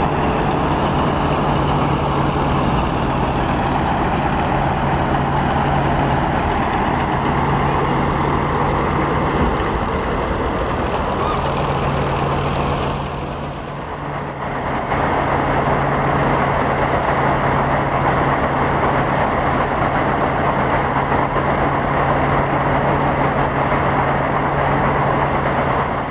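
An engine running steadily with a constant low hum, dipping briefly about halfway through before picking up again.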